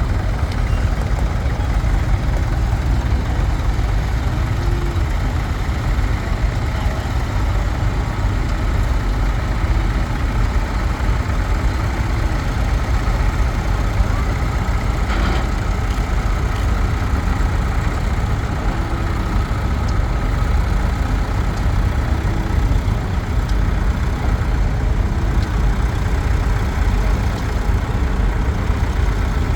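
Tractor engines running steadily with a low rumble as the tractors drive past, with a brief higher-pitched sound about halfway through.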